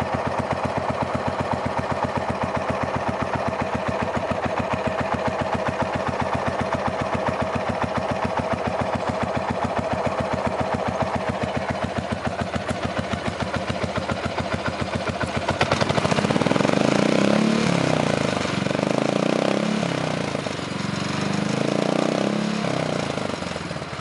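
2001 Buell Blast's single-cylinder four-stroke engine idling with an even, steady beat, then revved up and down about three times in the last part.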